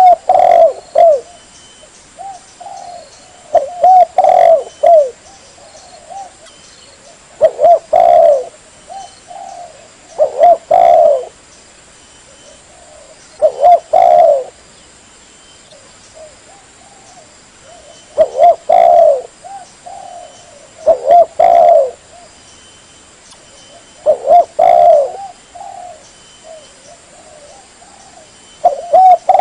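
Spotted dove (tekukur) cooing: a phrase of a few short, falling coos about every three to four seconds, repeated over and over as a hunting lure call.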